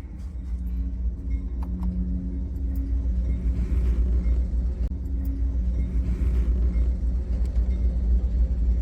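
Train passing close by, heard from inside a parked car: a heavy low rumble that builds over the first couple of seconds, with a steady hum over it and a few faint clicks.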